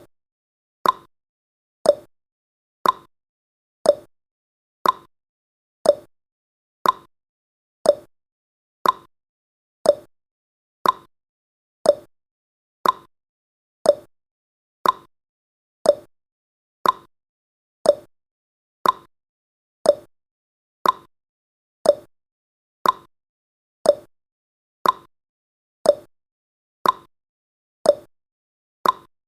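A timer's ticking sound effect: one short, sharp tick every second, each the same, keeping a steady beat.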